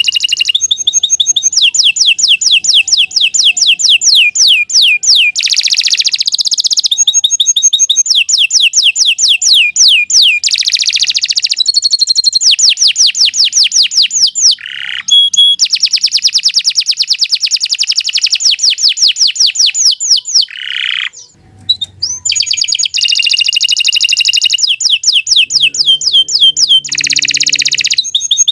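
Domestic canary singing a long, almost unbroken song of fast, high-pitched repeated trills that change from phrase to phrase, with a short pause about three-quarters of the way through.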